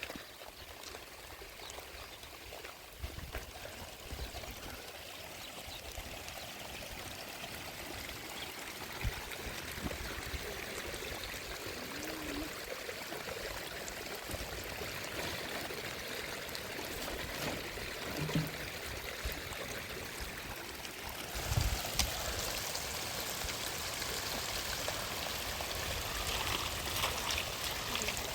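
Rain-swollen stream rushing and pouring steadily. The rush grows slowly, then turns louder and hissier about three-quarters of the way in, with a few low thumps.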